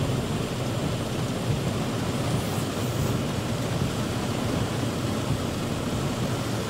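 Heavy rain drumming steadily on a car's roof and windshield, heard from inside the car, with a deep, even rumble and no breaks.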